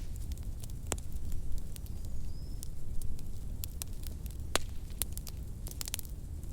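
Wood fire crackling in a fireplace: irregular sharp pops and snaps over a steady low rumble of the flames, with a quick cluster of pops near the end.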